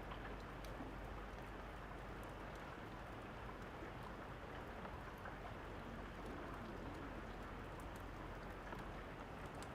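Steady rain falling, with a wood fire crackling over it in scattered small sharp snaps.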